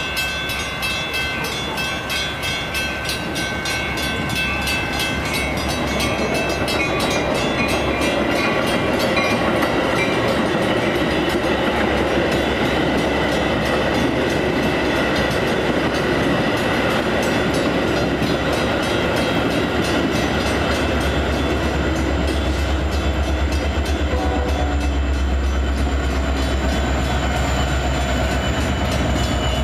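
Metra diesel push-pull commuter train passing close by, its wheels clicking over the rail joints, getting louder over the first several seconds. A low locomotive engine drone swells in the last third as the diesel draws near.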